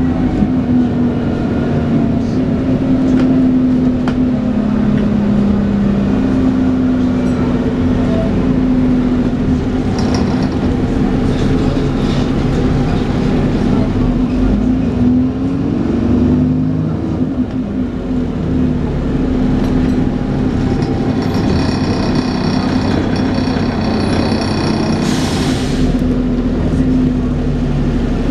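Dennis Trident 2 double-decker bus running, with the steady vacuum-cleaner-like hum known as 'hoovering'. Its pitch wavers briefly about midway, and a short hiss comes near the end.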